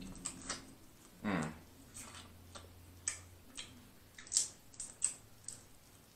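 Close-miked eating: soft, irregular wet clicks of lips smacking and chewing, with a short falling hum of the voice just over a second in.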